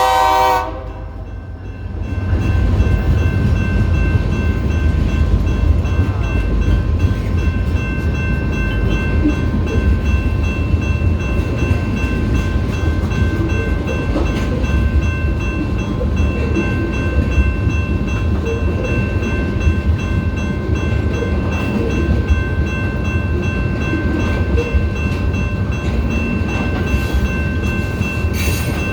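A BNSF freight train's horn cuts off about half a second in. From about two seconds in, the train's cars roll past with a steady low rumble.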